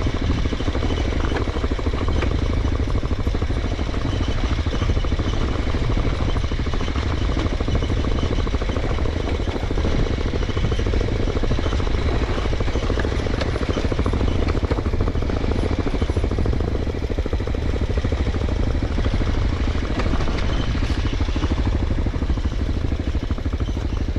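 Mondial Extreme Max 200i motorcycle engine running steadily off-road, a rapid even chugging with some rattle.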